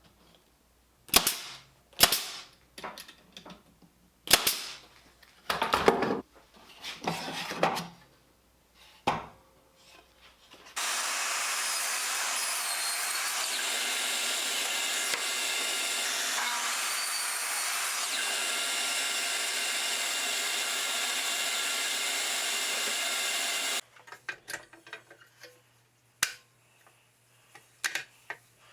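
Workshop sounds: a run of short wooden knocks and clatters as parts are handled, then a power tool running steadily for about 13 seconds, starting and stopping abruptly, followed by a few more knocks.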